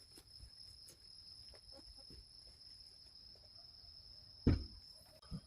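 Insects droning steadily at a high pitch, with scattered faint ticks, a heavy thump about four and a half seconds in and a smaller one near the end.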